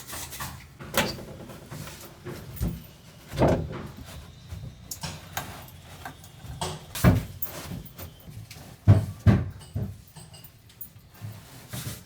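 Irregular knocks and thumps with handling noise, from work going on inside a wooden boat's hull while insulation is pushed into place between the bulkheads. A few knocks stand out, the loudest two close together about nine seconds in.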